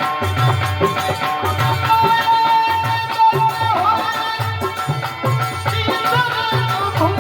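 Indian folk music: a hand drum keeps a steady beat, about two strokes a second, under a melody with a long held note about two seconds in.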